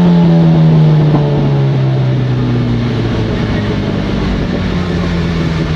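Motorcycle engine on a dynamometer winding down after a run, its pitch falling slowly for the first few seconds and then settling to a steady lower speed.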